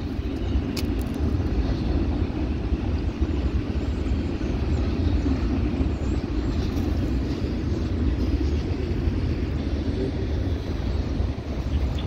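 Freight train rolling past, a steady rumble.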